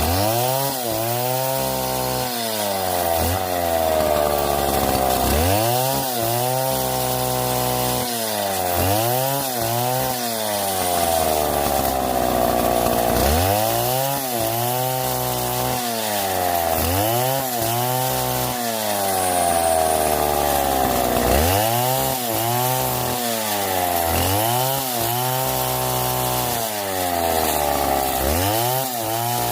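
Chainsaw cutting wood, its engine revving up and sagging in pitch again and again, roughly every two seconds, as the chain loads into the cut and frees.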